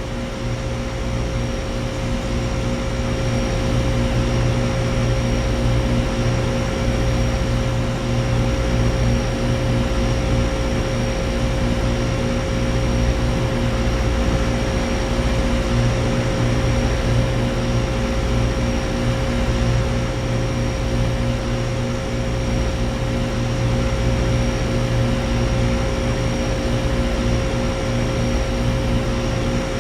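Central air conditioner condensing units running: steady compressor hum under the rush of the condenser fans, with a faint high whine over it.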